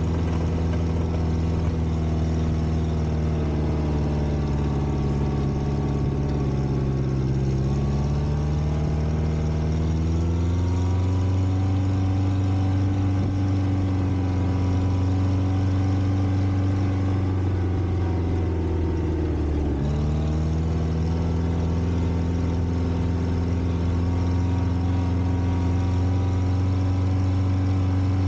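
Volvo four-cylinder gasoline engine of a 1960s Kalmar baggage tractor running steadily. Its speed sags slowly and climbs back about a third of the way in, then dips sharply and recovers about two-thirds of the way in.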